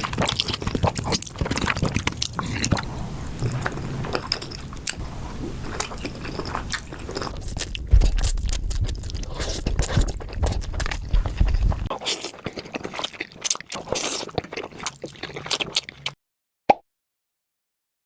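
Close-miked eating sounds of a person chewing creamy pasta, with wet, irregular mouth clicks. The sound cuts off abruptly about sixteen seconds in, and a single short blip follows.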